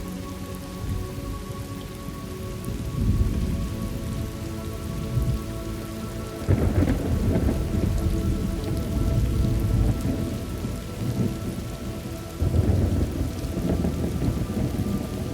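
Thunderstorm ambience: steady rain with rolling thunder that swells in low rumbles three times, about three, six and a half, and twelve and a half seconds in.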